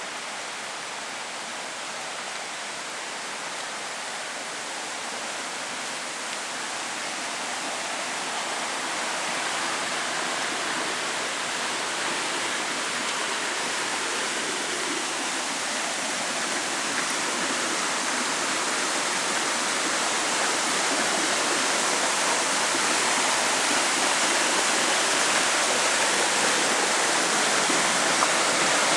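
Heavy rain pouring down, a steady dense rush of water that grows gradually louder.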